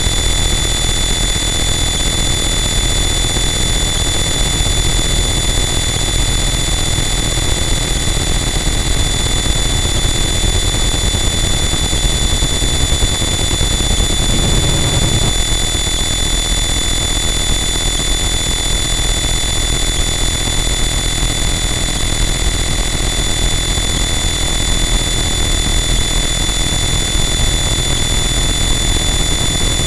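Harsh noise wall: a dense, unchanging wall of distorted noise with a heavy low rumble and steady shrill high tones, swelling briefly in the lower middle about halfway through.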